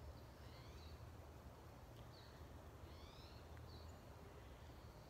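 Faint forest birdsong: a few short high chirps and trilled phrases, about one every second, over a steady low rumble.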